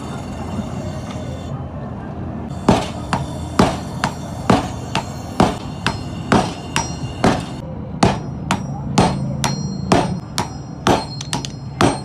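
Hammer blows on hot steel against an anvil, forging a cleaver blade: a slow run of strikes about one a second starting a few seconds in, quickening to about two a second near the end, each with a short metallic ring, over a steady low hum.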